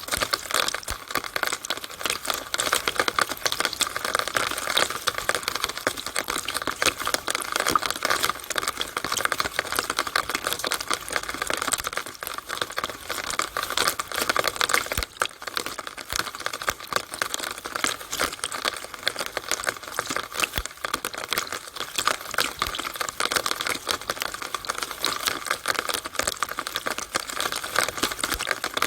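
Rainwater running through a downspout: a continuous dense stream of rapid drips and ticks with trickling water, steady throughout.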